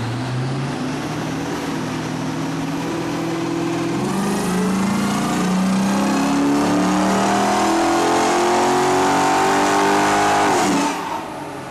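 Chrysler SRT8's HEMI V8 making a wide-open-throttle pull on a chassis dyno, its revs and loudness climbing for about ten seconds. Near the end the throttle is released and the revs fall away quickly.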